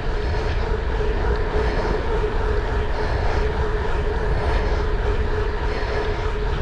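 Steady engine drone with a constant hum, unchanging throughout, heavy in the low end.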